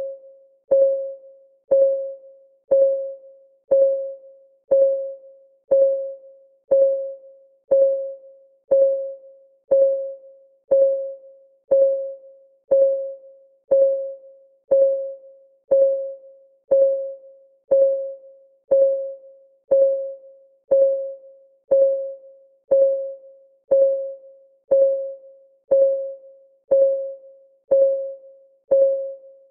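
Countdown timer's clock ticking sound: a steady tick about once a second, each tick a short pitched tock that rings briefly and fades.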